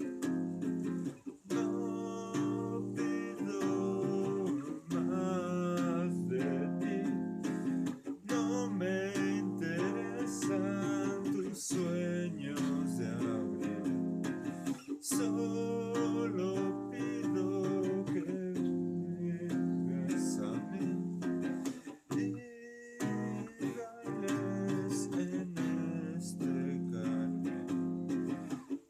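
Music led by acoustic guitar, plucked and strummed, running with only brief pauses.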